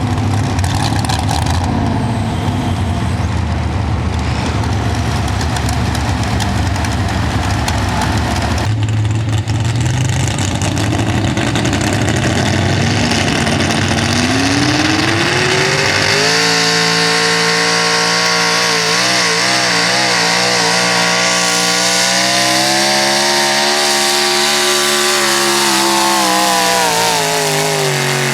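A 1996 Ford 4x4 pulling truck's engine under load on a pull: a rough, loud rumble at first, then the revs climb about halfway through and hold high with a wavering pitch while it pulls, before falling away near the end as the truck lets off.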